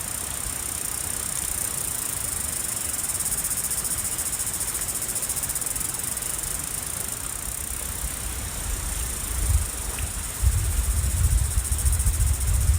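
A steady, high-pitched chorus of insects trilling, with low, uneven rumbling thumps coming in about ten seconds in.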